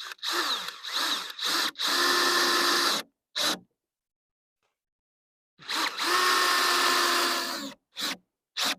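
Cordless screw gun driving screws into wood framing. It starts with a few short trigger bursts, then runs steadily for about a second, and later for about two seconds, with short blips in between.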